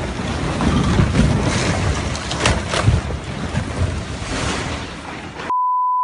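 Rockslide rumbling and crashing, a dense roar of falling rock with sharp cracks partway through, mixed with wind buffeting the microphone. Near the end it cuts off abruptly into a steady high-pitched censor bleep.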